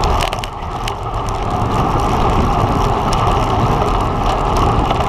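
Steady wind rushing over a microphone on a road bike ridden at race speed, with tyre rumble and a few sharp ticks.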